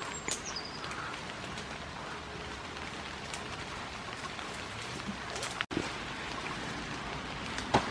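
Steady hiss of rain falling on leaves and pavement, with scattered light rustles and clicks from goats browsing in wet leafy bushes; the sound cuts out for a moment about two-thirds of the way in.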